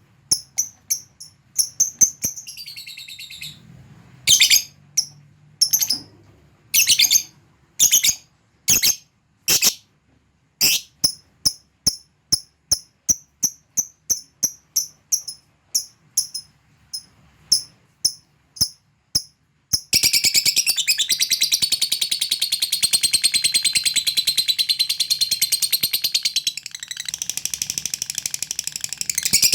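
Lovebird giving a string of short, high chirps, spaced about one to two a second. About two-thirds of the way in it breaks into one long, unbroken rapid chatter, the 'ngekek panjang' of a lovebird in full song.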